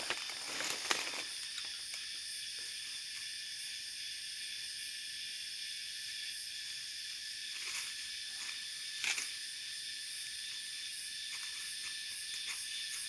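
A steady, high-pitched shrill hiss with a few brief rustles near the start and about eight and nine seconds in.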